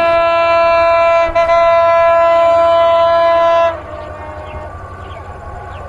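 Bangladesh Railway intercity train's horn blowing one long, loud blast with a brief break about a second and a half in, then stopping near the two-thirds mark. After that the train's running rumble carries on with faint clicking from the wheels.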